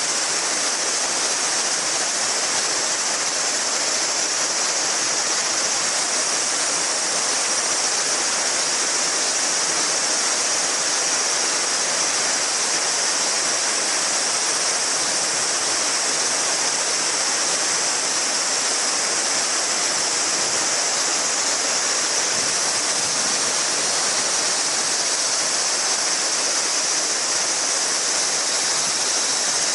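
A shallow mountain river babbling steadily over stones, with a dense chorus of summer cicadas shrilling on and on above it.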